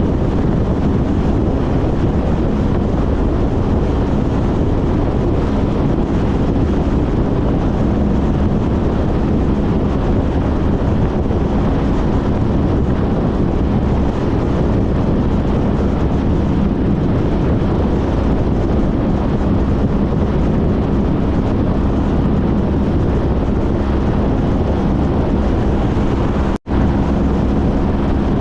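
Honda CTX1300's V4 engine running steadily at cruising speed, with wind buffeting the microphone. The sound cuts out for an instant about 26 seconds in.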